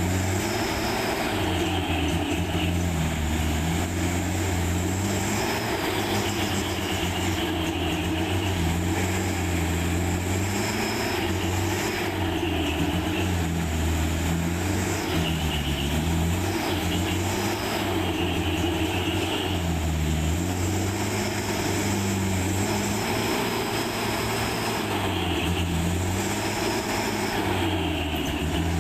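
Heavy truck's diesel engine running continuously under load, its pitch rising and falling every couple of seconds as the revs change.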